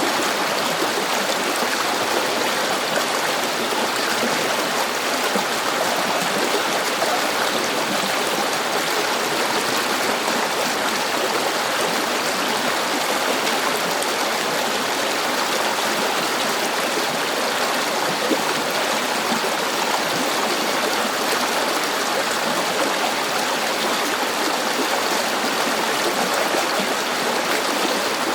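River water flowing over stones: a steady, even rushing with fine splashing and gurgling.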